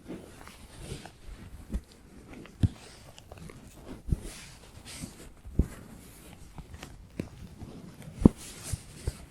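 Fingertips tapping and scratching for ASMR: irregular single taps about a second apart, the loudest about eight seconds in, between stretches of soft hissy scratching.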